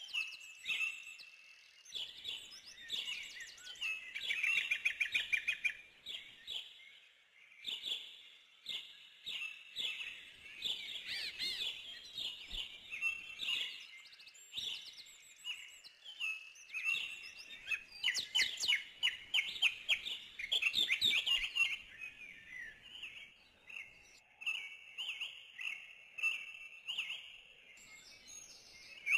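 Small birds chirping, with many short high calls and several quick trills in overlapping phrases.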